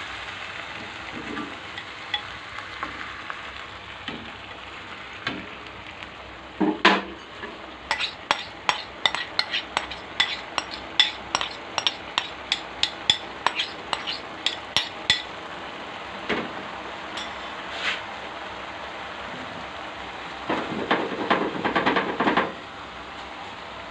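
Beaten egg and minced pork frying in a nonstick pan with a steady sizzle. A thump about seven seconds in, then a run of quick sharp clicks of utensils on dishware, about three a second, for some seven seconds, and a louder spell of sizzling near the end.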